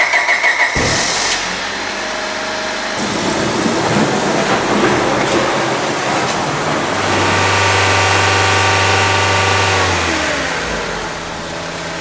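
1999 Honda Civic's four-cylinder engine cranked over with a pulsing whine for about a second, then catching and running. About seven seconds in the revs rise and hold steady for a few seconds, then fall back to a steady idle near the end.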